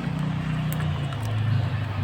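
Low, steady engine-like hum with a pitch that shifts slightly, typical of a motor vehicle running.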